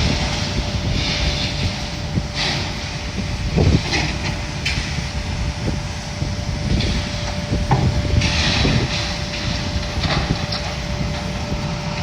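Bobcat skid-steer loader running, a steady engine drone with a constant hum, broken every second or two by short bursts of rattling as it handles demolition debris.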